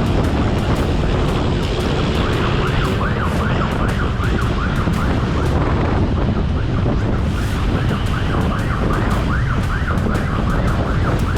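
Police siren wailing in fast rising-and-falling sweeps during a pursuit, over a steady rush of wind and vehicle noise.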